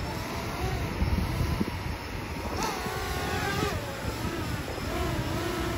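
Dirt bike engine running under way, its pitch rising and falling with the throttle, with wind rumbling on the microphone.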